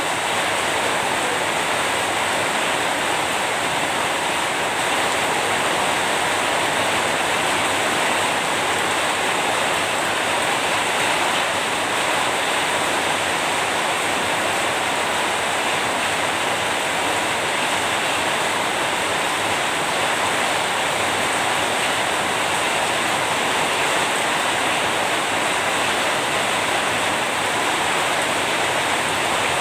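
Steady rain falling, a dense, even hiss with no separate drops, strikes or thunder standing out.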